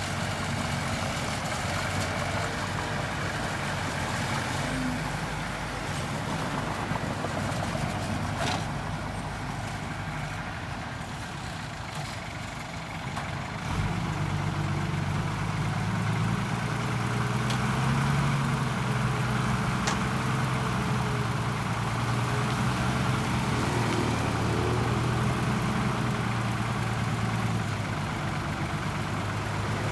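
Engine of a heavy earthmoving machine running steadily. About halfway through it grows louder, with a steadier, stronger engine note, as the machine takes on more throttle or load.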